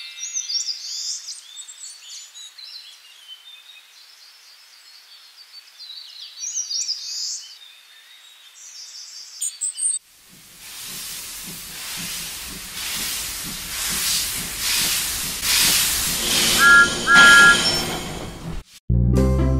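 Birds chirping, then after a cut a train running with a steady hiss and a regular pulsing beat that grows louder, with two short whistle toots near the end. Music starts just before the end.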